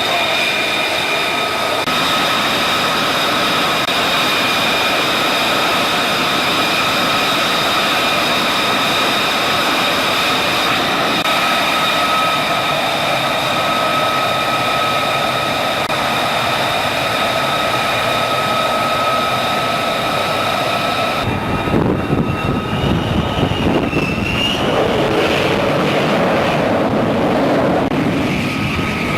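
F-35C's jet engine running with a steady high turbine whine over a broad rush of noise. About two-thirds of the way through the sound changes abruptly: the whine drops away into a deeper, rougher jet roar with a wavering pitch.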